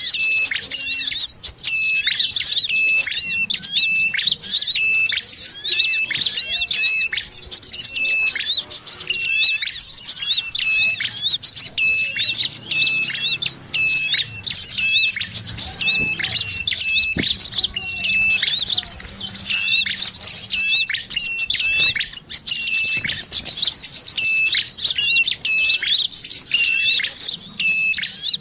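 Pikat sogon bird-lure recording: a dense, continuous chatter of many small birds' rapid chirps and twitters, mixing sogon chatter with calls of the prenjak kepala merah and the kolibri kelapa (brown-throated sunbird). A short, level whistled note repeats about twice a second through much of it.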